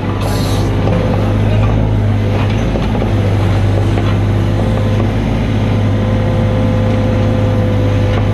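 Mini excavator's diesel engine running at a steady speed, with a brief hiss about half a second in.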